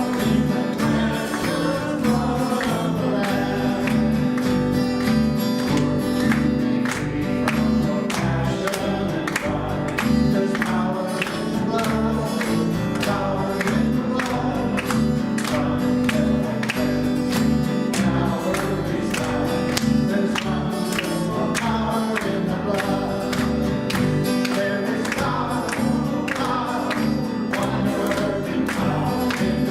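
Live church worship music: voices singing a worship song together over a band, with a steady beat.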